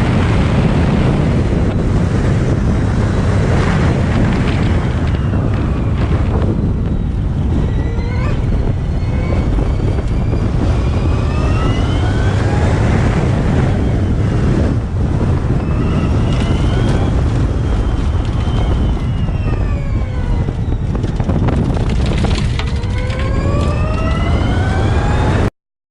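Porsche Formula E race car's electric powertrain whining, rising in pitch as it speeds up and falling as it slows, several times over, above a heavy rumble of wind on the microphone. The sound cuts off suddenly near the end.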